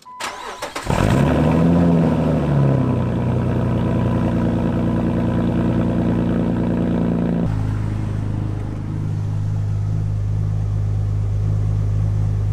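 A 2006 Jeep Wrangler TJ's engine is cold-started: the starter cranks for about a second, the engine catches, and its revs flare up and fall back to a fast, steady cold idle. A little past the middle the sound changes abruptly, and the idle is heard from inside the cabin.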